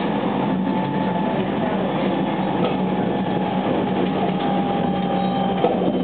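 JR West 287 series electric multiple unit running at speed, heard from inside the passenger cabin: a steady rumble of wheels on rail with a low hum and a faint steady whine, and a brief knock near the end.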